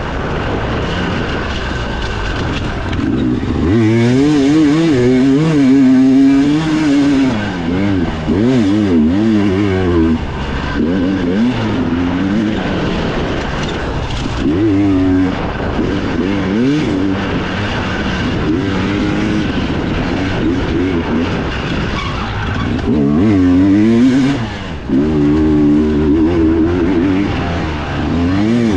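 Dirt bike engine heard from on board under racing throttle, its pitch rising and falling quickly and over and over as the rider works the throttle and gears, with the hardest revving about four seconds in and again near the end.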